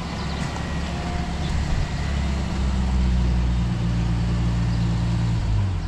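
A low-pitched engine running steadily, getting louder about two seconds in, then cutting off shortly before the end.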